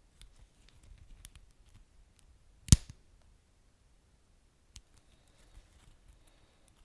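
Wood fire crackling: scattered small pops and ticks, with one loud sharp snap about a third of the way in.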